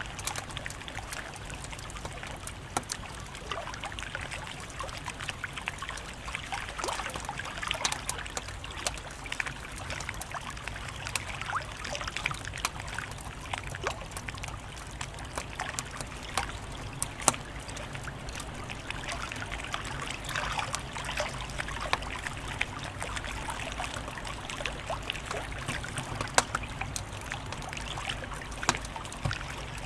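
Wood fire crackling steadily: a continuous soft hiss with many small snaps and a few sharper pops scattered through.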